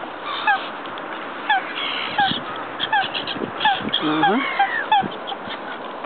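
Birds calling repeatedly: about nine short, downward-sliding notes, one every half second to a second, with a longer gliding call about four seconds in.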